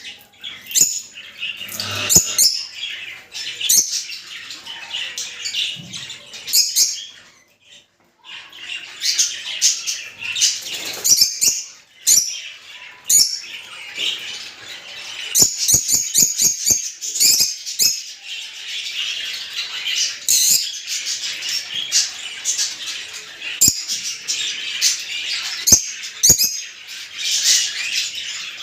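A flock of lovebirds, peach-faced and Fischer's, chattering with rapid high chirps and squawks, broken by a short pause about eight seconds in. A quick run of sharp clicks comes about halfway through.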